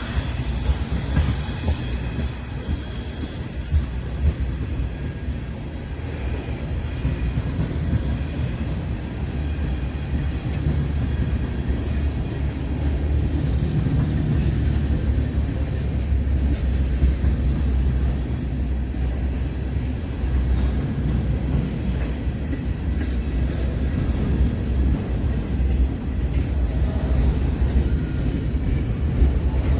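Train rolling past: a steady low rumble of railcars on the rails with scattered clicks, and high wheel squeal in the first few seconds that fades away.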